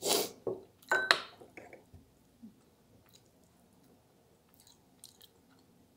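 A person chewing a soft mouthful of cheesy eggplant parmigiana with closed lips, close to the microphone. There are two short noisy bursts in the first second and a half, then only faint mouth clicks.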